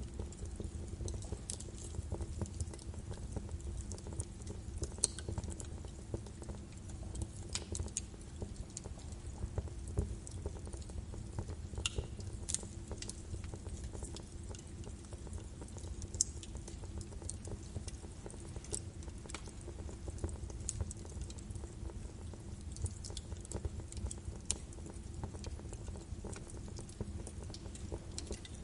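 Birch logs burning in a fireplace: a low steady rumble of flame with irregular sharp crackles and pops scattered throughout.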